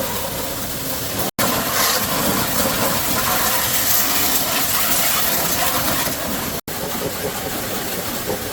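Steady rushing hiss over a running engine. It grows louder and brighter about a second and a half in, and cuts out for an instant twice.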